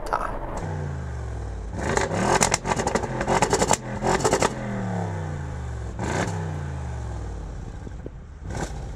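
Audi RS7's twin-turbo V8 accelerating hard through the gears, its pitch climbing and dropping back at each upshift, with sharp crackles around the shifts.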